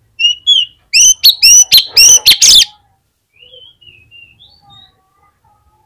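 Oriental magpie-robin (kacer) singing: two short whistles, then a rapid run of loud, clear whistled notes lasting about two seconds. Softer twittering phrases follow.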